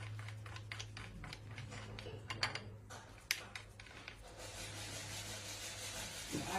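A run of light, irregular clicks and taps over a steady low hum, giving way to a soft even hiss about four seconds in.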